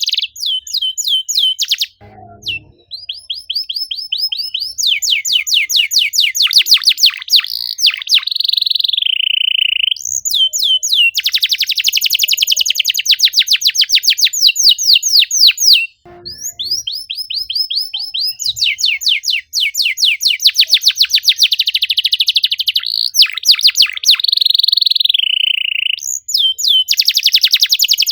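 Domestic canary singing a long, loud song of fast, tightly packed trills: rapid runs of repeated sweeping whistled notes in phrases of several seconds, with short breaks between phrases.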